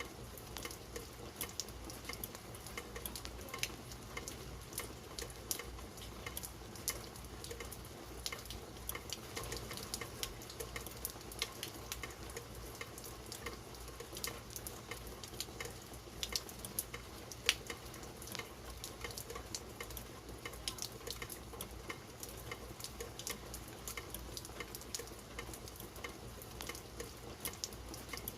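Steady rain, with many close drops landing as sharp, irregular ticks over a soft continuous hiss.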